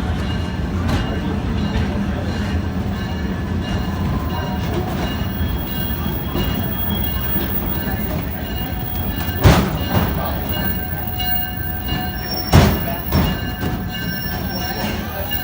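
Passenger train cars rolling along the track: a steady rumble of wheels on rail with faint high wheel squeal. Two sharp knocks stand out, about 9 and 12 seconds in.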